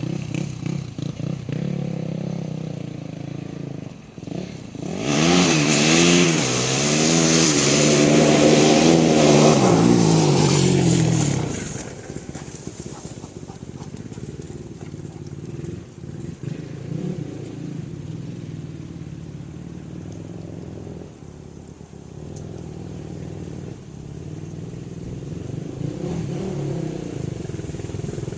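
Yamaha YFZ450 quad's single-cylinder four-stroke engine through a Lexx MX aftermarket exhaust, revving up and down as it is ridden. It gets loudest from about five to twelve seconds in, drops back to a quieter, more distant running, and grows louder again near the end.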